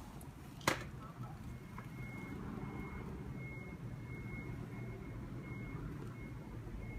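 Toshiba AW-42ML top-loading washing machine: a sharp click, then the machine running with a steady low hum and a faint high tone that comes and goes.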